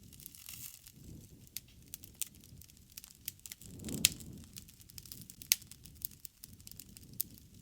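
Wood fire crackling: irregular sharp pops and snaps over a low rumble of burning, with a louder swell and a loud pop about four seconds in and another sharp pop about a second and a half later.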